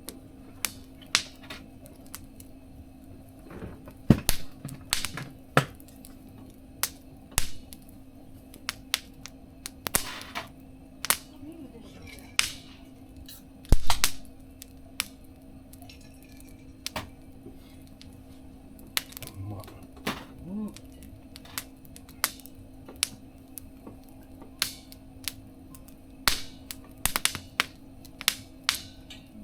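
Wood fire burning in a small mesh fire-pit stove, crackling with sharp, irregular pops; the loudest pops come about 4 and 14 seconds in.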